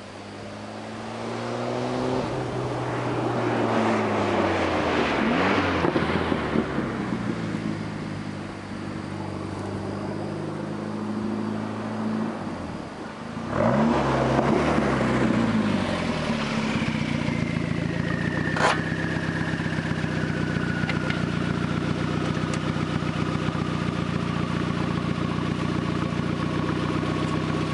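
Volvo 240 Turbo's B21FT turbocharged four-cylinder, through a 3-inch straight-through turboback exhaust with a glasspack, passing close by twice, its note swelling and then dropping in pitch each time. It then pulls up and idles steadily while a high whine slowly falls in pitch, with a single sharp click partway through.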